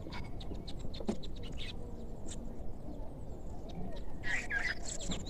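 Birds chirping: scattered short chirps, with a brighter bending call about four seconds in, over a steady outdoor background hiss.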